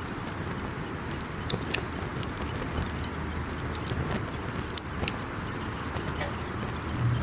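Wood campfire burning: irregular sharp crackles and pops over a steady hiss of the flames. A faint low hum comes in about three seconds in.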